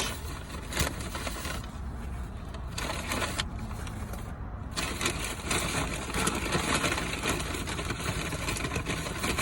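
Paper fast-food bag and wrappers rustling and crinkling as a takeout order is unpacked, with a steady low hum underneath.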